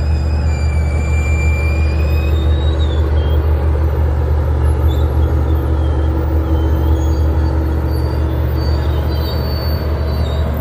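Aberdeen, Carolina and Western F-unit diesel locomotives running with a steady deep engine rumble. Thin high squealing tones wander up and down in pitch above it.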